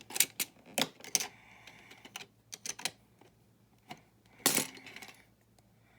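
Small plastic building bricks and plates clicking and clattering as they are handled, pressed and pulled apart, in irregular sharp clicks with a louder clatter about four and a half seconds in.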